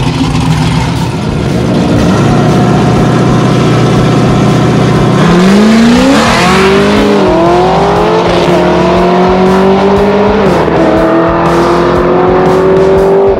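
Two street-race cars, one of them a Fox-body Ford Mustang, hold steady revs on the start line, then launch about five seconds in. Their engines rise in pitch at full throttle and drop back at each upshift, about a second and a half, three and five seconds after the launch.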